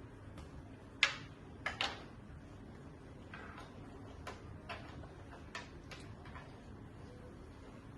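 Irregular sharp clicks and light knocks, a few louder ones about a second in and more scattered faint ones later, over a low steady background hum.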